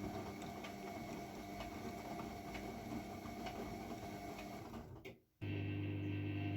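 AEG Lavamat W 1450 washing machine running: a steady motor hum with light, regular ticking. About five seconds in the sound breaks off for a moment and comes back as a stronger, steadier hum.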